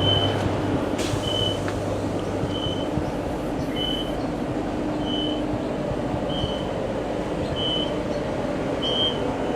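Queensland Rail EMU electric train noise, a steady rumbling haze, with a short high-pitched beep repeating about every second and a quarter; a low hum underneath fades out about three seconds in.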